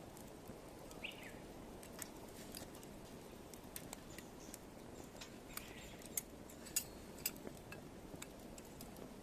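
Firewood burning in a compact fire pit, crackling with irregular sharp pops and snaps over a low steady rush, the loudest snap a little past halfway.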